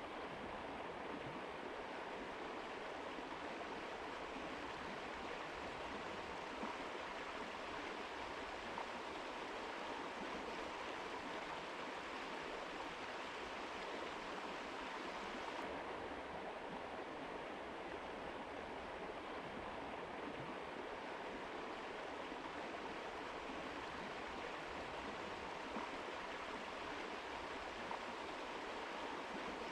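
Mountain river flowing, a steady even rush of water. Its highest hiss dims slightly about halfway through.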